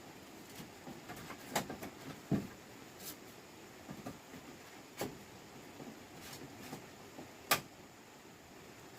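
Scattered light knocks and clicks, irregular and a few seconds apart. The sharpest come about one and a half, five and seven and a half seconds in, with a duller thump around two and a half seconds.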